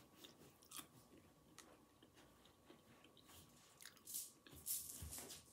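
A person chewing food quietly with faint mouth clicks and smacks, a little louder about four seconds in.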